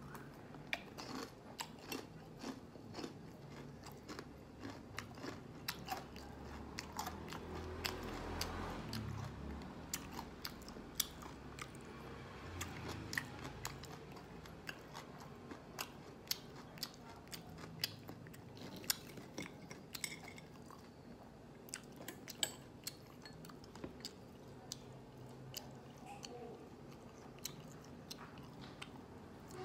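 A person chewing and crunching crispy breaded fried pork up close, with many sharp, irregular crunches.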